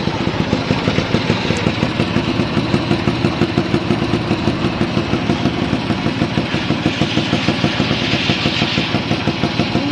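Fuji Rabbit 125 (S301) scooter's single-cylinder two-stroke engine idling steadily with an even, regular pulse.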